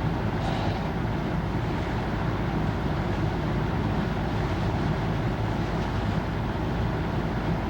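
A vehicle running steadily, with a constant low engine and road rumble.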